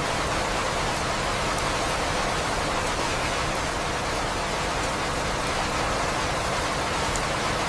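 Steady rain, a constant even hiss with a few faint drop ticks.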